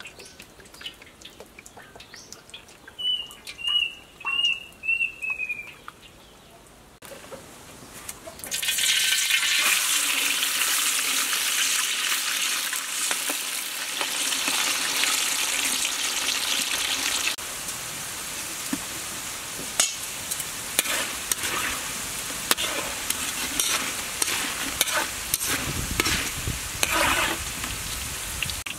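Thin slices of green banana deep-frying in oil in a wok: a loud, steady sizzle starts about eight seconds in and eases slightly partway through, while metal tongs clink and stir the slices. Before the sizzle, the wok is quieter, with a few clinks and a short run of high chirps.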